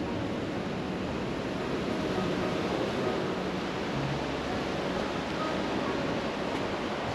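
Steady sea surf washing on the shore, heard as a continuous even hiss.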